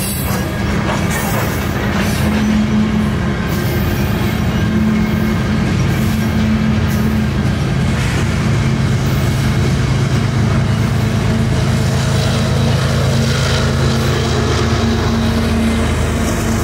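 Covered hopper cars of a Canadian Pacific freight train rolling past: a steady rumble of steel wheels on rail with occasional clacks. Near the end a deeper diesel hum grows as the DPU locomotive in the train comes alongside.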